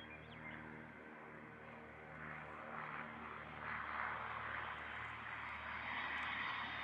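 Cessna Citation Excel business jet's twin turbofan engines, a steady jet rush that grows gradually louder as the jet comes in to land.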